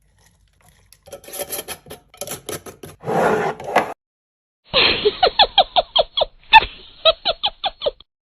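Clicks, light knocks and rustling as items are handled in a fridge restock. Then, a little before the halfway point, a rapid run of about a dozen short high squeaks, about four a second.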